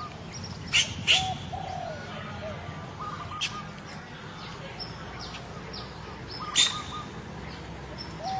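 Birds calling: a few sharp chirps among short rapid runs of notes and arched cooing notes, the phrase repeating every few seconds over a low steady background hum.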